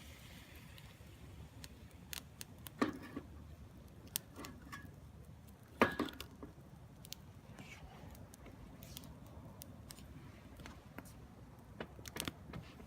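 Scattered small clicks and knocks of cookware and utensils being handled, with two louder knocks about three and six seconds in.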